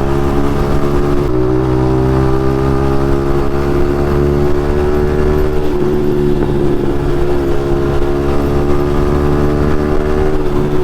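Yamaha MT-15's single-cylinder engine running through an aftermarket Akrapovic exhaust, holding a steady, nearly even pitch while the bike cruises at a moderate speed.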